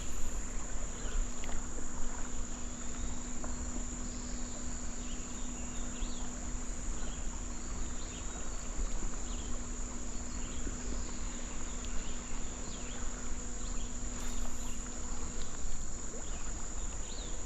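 Insects calling in a steady, high-pitched drone.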